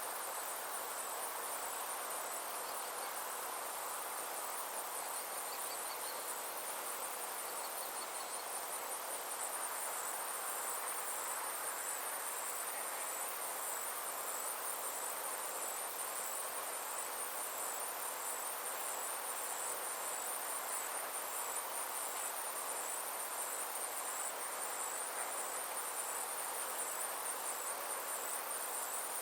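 Summer insects calling in a steady, fast, high-pitched pulsing trill over a soft, even background rush.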